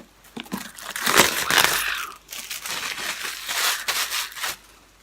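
Plastic packaging wrap crinkling and being crumpled in the hands as it is pulled off a box: irregular rustling that stops near the end.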